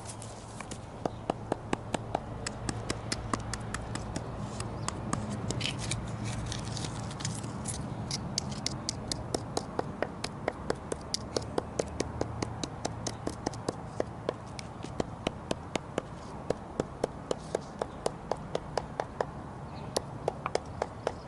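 A hand carving tool gouging and scraping charred wood in short, sharp strokes, about three a second, over a steady low hum.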